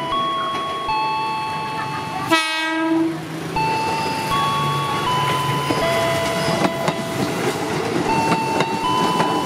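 Electric commuter train passing close by with a steady rumble and some wheel clatter. It gives one short horn blast about two and a half seconds in, the loudest sound. A simple melody of held notes, stepping from pitch to pitch, plays throughout.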